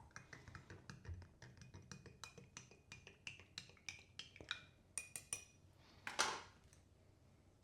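A spoon stirring coffee in a cup, making faint, quick, repeated clinks against the sides. A short rushing noise follows about six seconds in.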